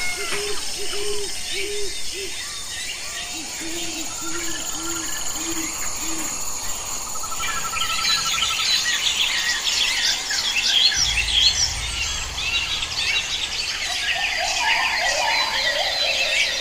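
Wild birds calling: first two runs of low, evenly spaced notes, four or five to a run, then from about halfway through a dense chorus of many high chirps and trills.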